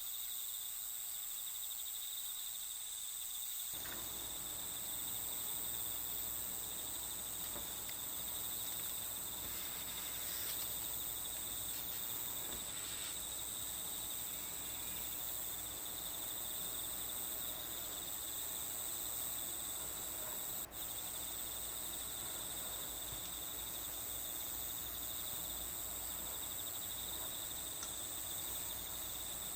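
A steady chorus of crickets chirping without a break, as nature ambience.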